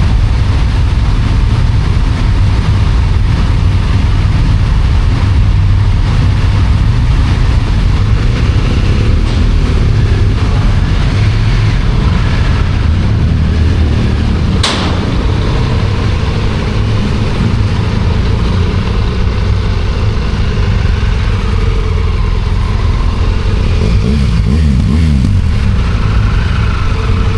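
Motorcycle being ridden on the road: a steady, loud engine and wind rumble, with one sharp click about halfway through.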